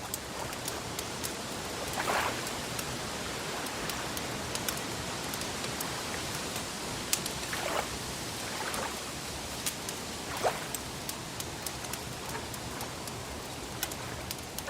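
Wood fire crackling with scattered sharp pops over a steady watery hiss of lake water, with a few soft swishes of water lapping.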